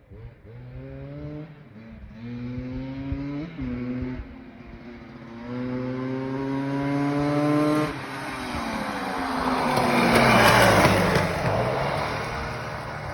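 Yamaha Blaster single-cylinder two-stroke engine on a mini bike pulling away, its revs climbing several times with a drop in pitch between, on its first run after the engine swap. It then grows loud, peaking about ten seconds in, and fades as the bike passes and moves off.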